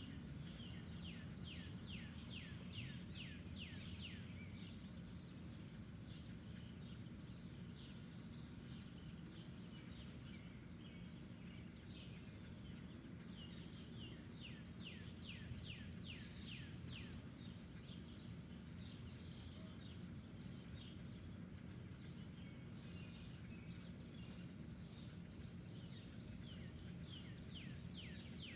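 A songbird singing rapid runs of high, downward-sweeping notes, in bursts near the start, about halfway through and near the end, over a steady low outdoor hum.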